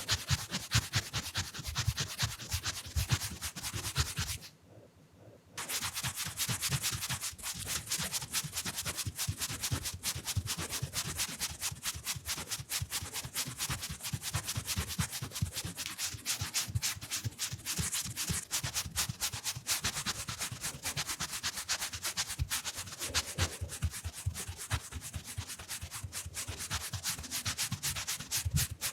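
Round makeup brush rubbed fast against the microphone, a quick, dense run of scratchy brushing strokes, broken once by a pause of about a second near the start.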